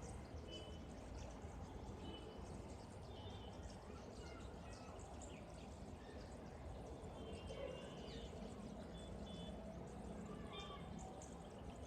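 A flock of rosy starlings chattering faintly, with many short, overlapping chirps and squeaky notes, over a steady low rumble.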